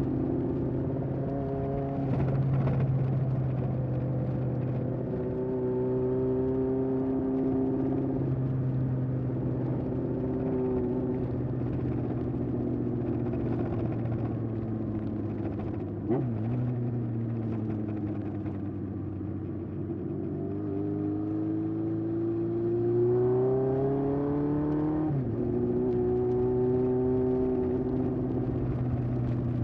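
1981 Honda CB750F's air-cooled inline-four engine through a vintage Yoshimura exhaust, under way: holding steady revs, dropping off about halfway through, then climbing steadily in pitch to a sudden drop near the end, like a gear change.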